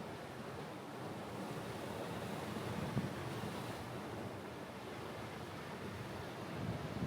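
Mediterranean sea waves washing ashore in a steady hiss, with a low surge about three seconds in and again near the end.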